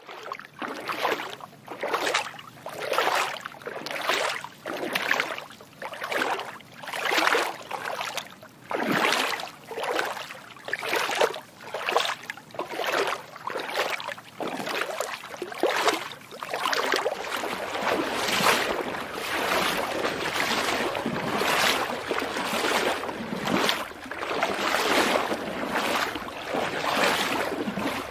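Footsteps wading through shallow water, a splash with each step at a bit more than one step per second; after about halfway the splashes run closer together and blur into a steadier sloshing.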